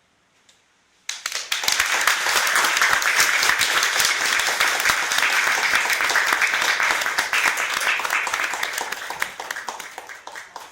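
Audience applauding: after about a second of near silence the clapping starts suddenly, holds steady, and fades away near the end.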